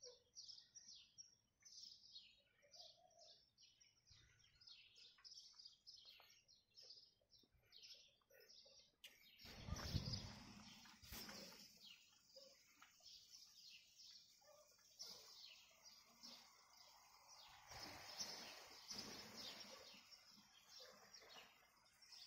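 Many small birds chirping faintly and continuously in quick, high, short notes. A brief low rumble comes about halfway through, with a weaker one later.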